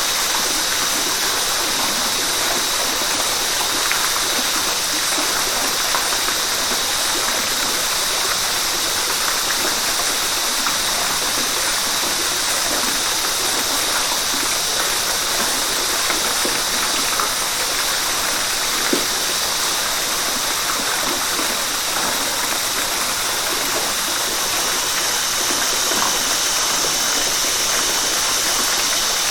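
River water rushing steadily: an even, bright hiss with little low rumble.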